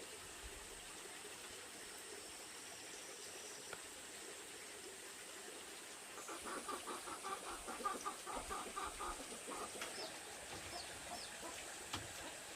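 An animal calls in a quick run of repeated short notes, about six a second, starting about halfway through and lasting some three seconds. A few faint high chirps follow. Underneath is the steady rush of running water.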